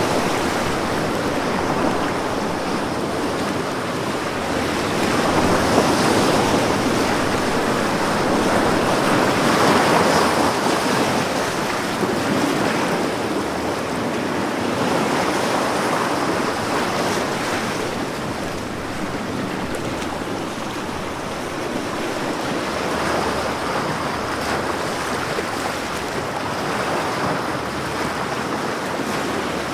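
Ocean waves breaking and washing on a shore, the surf swelling and easing every few seconds, with some wind.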